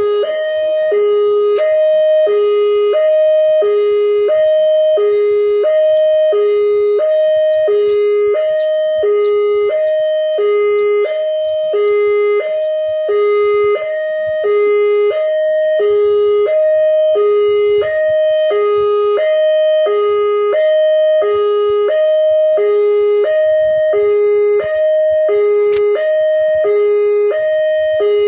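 Railway level-crossing warning alarm sounding: electronic high and low tones alternating, about one pair a second, repeating steadily.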